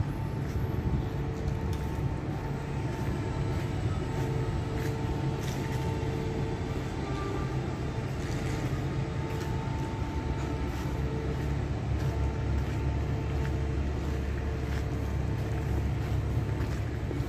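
Electric train at a station platform: a steady low rumble with a constant hum, holding unchanged throughout.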